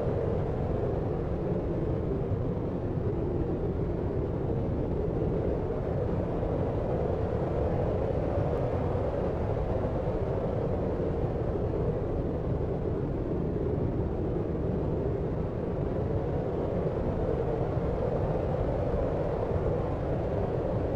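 Deep, steady sleep noise, a dark low hiss-rumble like brown noise, even and unchanging, with most of its weight in the lows and little treble.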